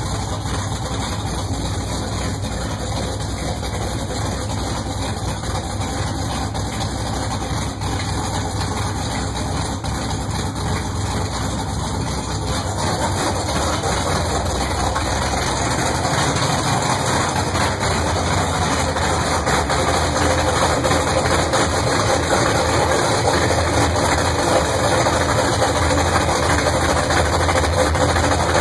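A 1970 Pontiac Trans Am's 400 cubic-inch V8 running at a fast idle of about 1,000 RPM on its first start. It grows a little louder about halfway through.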